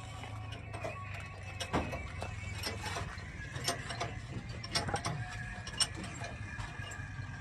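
Scattered metallic clicks and clinks of hand tools and steel parts being worked on a truck front axle, over a steady low hum.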